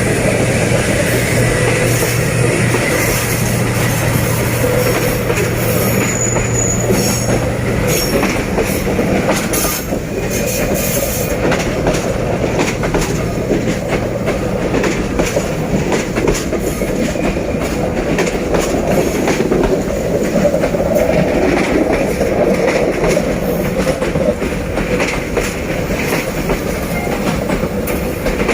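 Train running on the rails behind a D19E diesel-electric locomotive, its wheels clicking over the rail joints. A steady low hum runs through the first eight seconds or so, then fades under the rolling noise.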